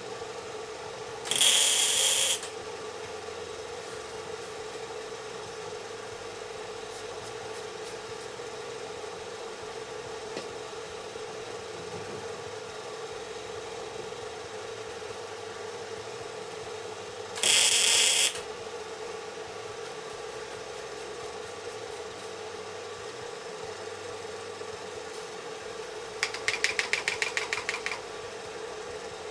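Two short bursts of a shop power tool, about a second each and well apart, over a steady hum. Near the end comes a quick run of rapid pulses.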